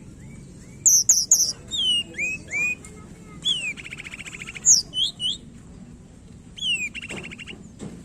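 A tledekan gunung songbird singing: a fast string of short, high, sharply slurred whistles. Twice a rapid buzzy rattle breaks in, about three and a half seconds in and again near the end.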